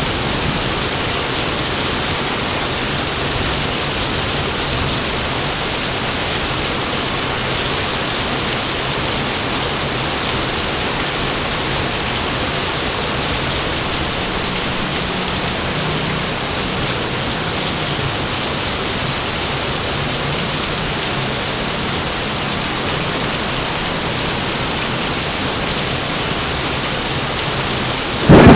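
Heavy rain pouring as a steady, even hiss. A loud clap of thunder breaks in right at the end.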